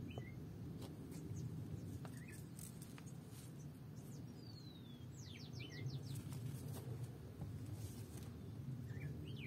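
Small songbirds chirping: scattered short chirps, a long falling note about three and a half seconds in, and about five seconds in a quick run of about six sharp downward-sweeping notes. Under them runs a steady low background rumble.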